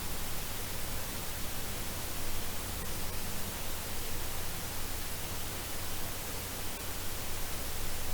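Steady hiss of background noise with a faint low hum that fades out a few seconds in; no distinct event stands out.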